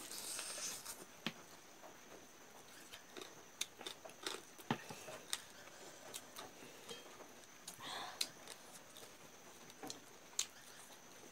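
Mouth sounds of eating by hand: scattered sharp clicks and smacks of chewing, with a short noisy burst at the start and another about eight seconds in.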